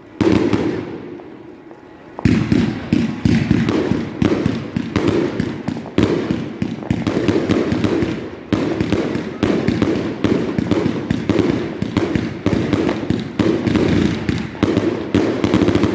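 Fireworks exploding: a single loud bang, then from about two seconds in a rapid, continuous barrage of bangs and crackles.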